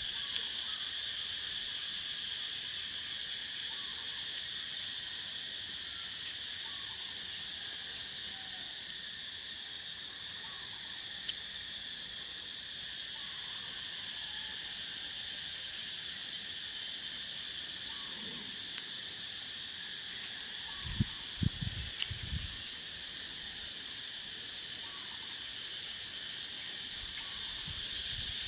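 A steady insect chorus trilling without a break, typical of crickets. A few short low knocks sound about three-quarters of the way through.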